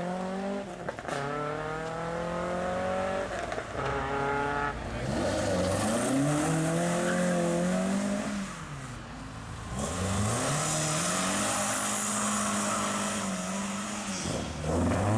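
Classic Ford car engine revving hard as the car pulls away, the pitch climbing and then dropping several times as it changes up through the gears.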